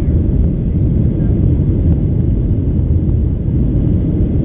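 Steady low rumble of an airliner's jet engines and rushing air, heard inside the cabin during the climb after takeoff.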